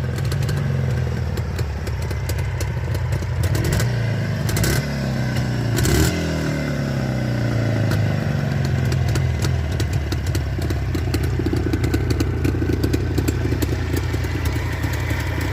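Two-stroke motorcycle engine running through its exhaust, blipped up and back down a few times about three to six seconds in, then settling into steady running.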